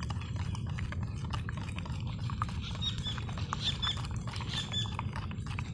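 Steady low rumble of strong wind on the microphone, with many small irregular clicks and taps over it and a few brief high chirps in the middle.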